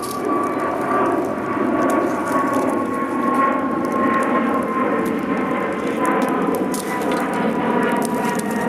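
Steady droning hum whose pitch falls slowly throughout, with the light crackle of a campfire's small snapping clicks over it.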